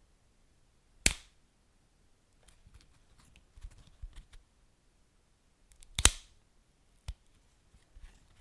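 Wood fire crackling: two loud sharp pops about five seconds apart, a smaller pop a second after the second one, and faint scattered crackles in between.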